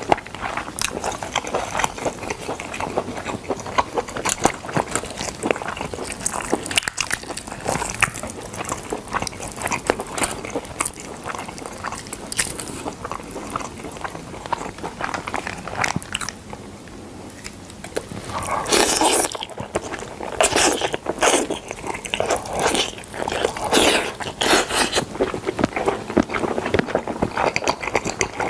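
Chewing and biting into smoked chicken: a steady run of short mouth clicks, a brief lull a little past halfway, then a stretch of louder bites.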